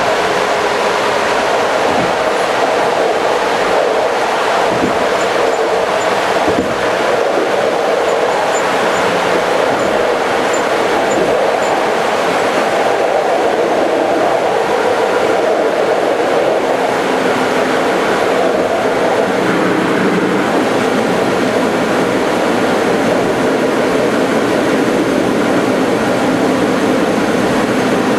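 Passenger train running along the line, heard from on board: a steady rolling rumble of wheels on rail, with a few sharp knocks in the first several seconds.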